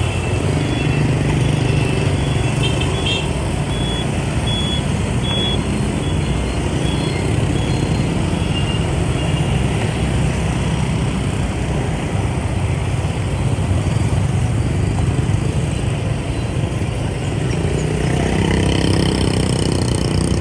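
Motorbike engine running and dense road traffic passing close by, with a string of short, high beeps during the first several seconds.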